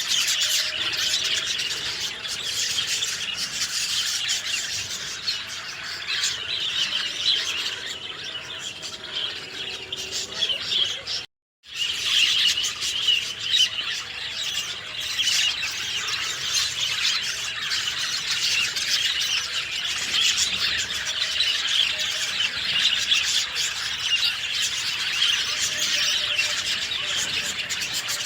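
A dense chorus of many small birds chirping and twittering continuously, with overlapping high calls. About eleven seconds in, a half-second gap of complete silence interrupts it.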